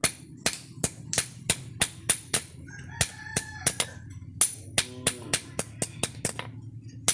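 Hand hammer striking a steel saw blade in a steady rhythm, about three ringing blows a second. A rooster crows in the background about three seconds in.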